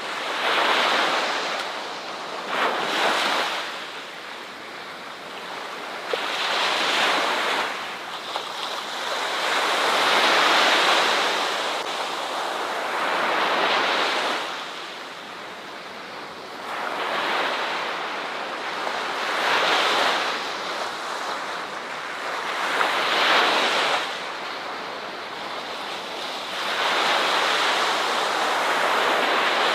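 Ocean waves breaking on a shore, a surging wash that swells and fades about every three to four seconds.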